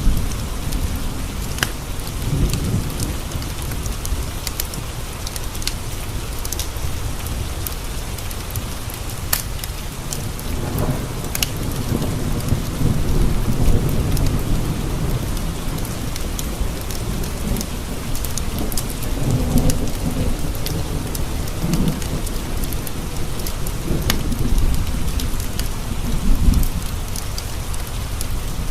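Steady rain with thunder rumbling low several times, swelling and fading. Sharp crackles from a wood fire in a stone fireplace pop now and then over the rain.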